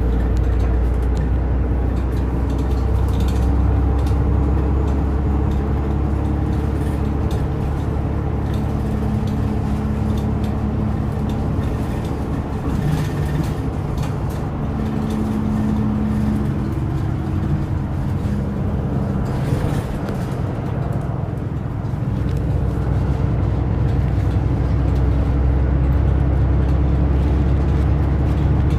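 Route bus interior: the bus's diesel engine drones low and steady while under way, its note rising and falling a few times with road speed.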